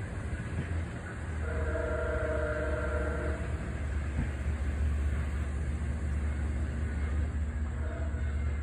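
MARC commuter train hauled by an MP36 diesel locomotive, rumbling low and steady as it pulls away into the distance. A held chord of several tones sounds for about two seconds shortly after the start.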